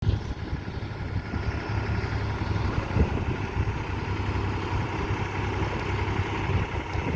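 Tractor engine running steadily with a low, rapid chugging, with one louder knock about three seconds in.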